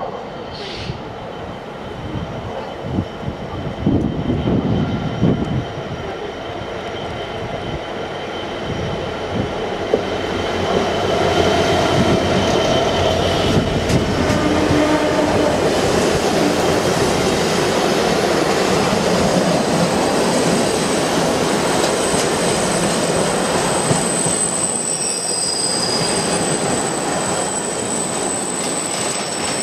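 A GBRF Class 66 diesel locomotive and its train of car-carrier wagons passing close by. The steady rumble of wheels on rail builds about ten seconds in, and a thin high wheel squeal comes in near the end.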